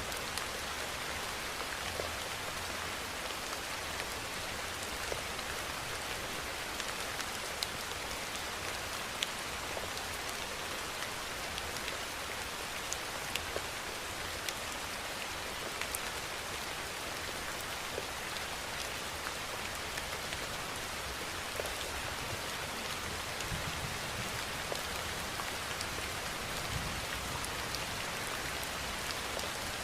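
Steady rainfall: an even hiss of rain with individual drops ticking here and there.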